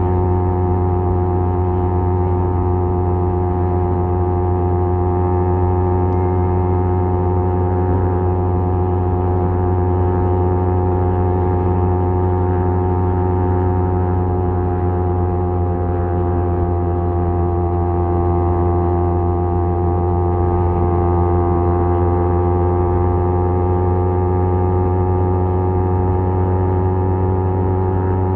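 Kawasaki Z250 parallel-twin engine through a SeaPro aftermarket muffler, running steadily at cruising speed with a deep exhaust drone. The pitch dips slightly about two-thirds of the way through, then climbs back.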